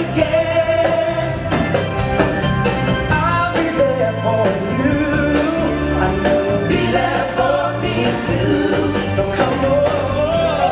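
Music with a choir singing over instrumental backing.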